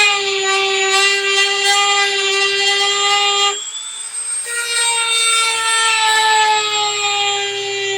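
Dremel rotary tool grinding into the epoxy casing of a DS12887A real-time clock chip: a high, steady whine that sags slightly in pitch as the bit bites. It eases off for about a second midway, then resumes.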